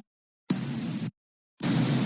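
Bursts of static hiss that cut in and out abruptly with dead silence between them: a short burst about half a second in, then steady hiss again from near the end.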